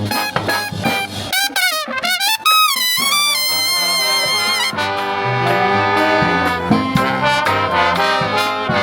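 Jazz-style brass music with trumpets and trombones playing; about two seconds in, high held notes waver with a wide vibrato.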